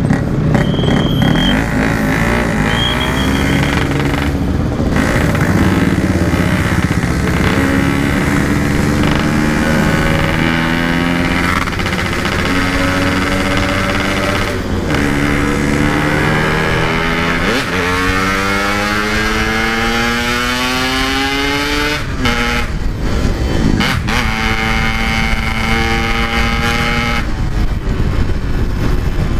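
Yamaha RX-King 135cc two-stroke single-cylinder motorcycle being ridden hard through the gears, its engine pitch climbing under throttle and dropping at each shift, through an aftermarket stock-look exhaust. Two short high beeps near the start.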